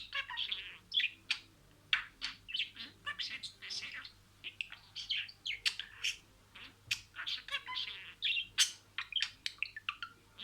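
Budgerigar chattering: a fast, unbroken stream of chirps, clicks and warbled notes.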